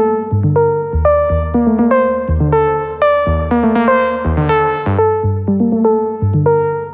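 Electronic music loop: a synth lead playing a repeating melodic pattern of short plucked notes over a synth bass line, without drums. The loop is being run through an SSL Fusion analog processor, and its tone turns brighter for a couple of seconds in the middle.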